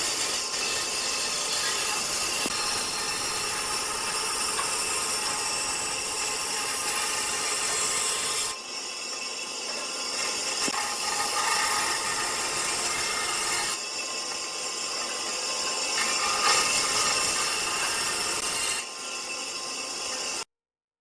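Power tools working wood, a steady noise in several edited segments that change abruptly about every five seconds, ending in a brief dead silence.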